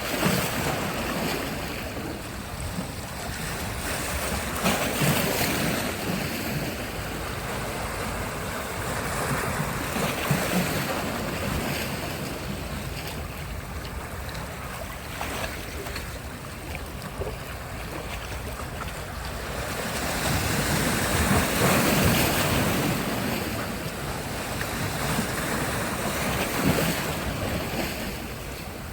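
Sea surf: waves breaking and washing up the shore, swelling in surges every five seconds or so, the biggest about two-thirds of the way through. Wind on the microphone adds a low rumble.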